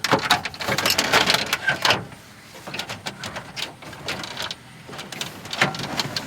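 Plastic dash trim panel of a Chevy truck being handled and fitted into place, with rapid plastic clicks and rattles at first, then scattered lighter clicks and a further run of clacks near the end.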